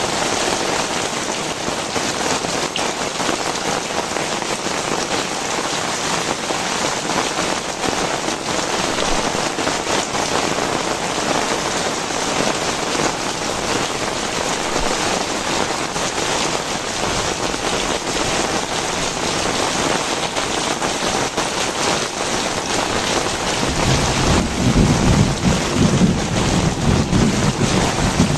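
Heavy tropical rain pouring steadily. About four seconds before the end, a low rumble of thunder builds up under it and the whole sound grows louder.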